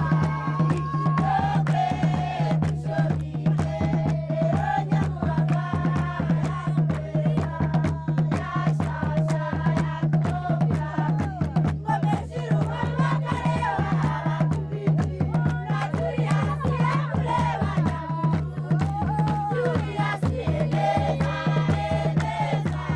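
Group singing in a chant-like style over a quick, steady drum beat, with a constant low drone underneath.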